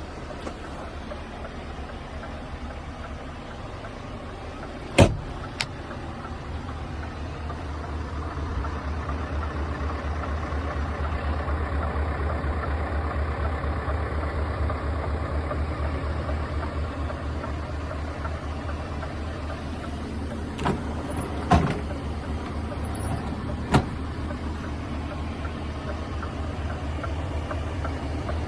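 Scania S520's V8 diesel engine running with a steady low hum. It grows louder a few seconds in and eases off again later. A few sharp clicks stand out over it, the loudest about five seconds in.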